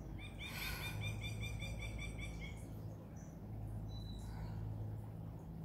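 A bird calling a quick, even series of about a dozen short notes, roughly five a second, that stops about two and a half seconds in, followed by a few faint high chirps.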